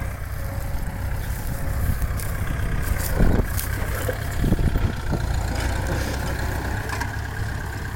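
Kubota farm tractor's diesel engine running steadily, with a couple of brief low thumps around the middle.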